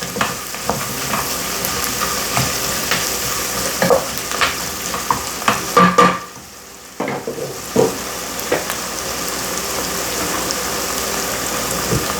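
Sliced mushrooms with onions, celery, carrots and garlic sizzling in butter in a soup pot, stirred with a spoon that knocks and scrapes against the pot. The sizzle drops away for about a second near the middle, then resumes.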